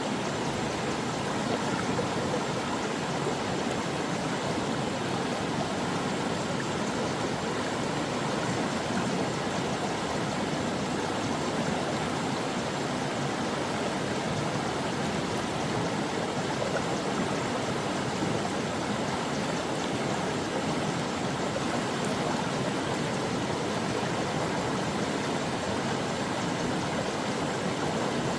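Stream water flowing and babbling steadily over rocks.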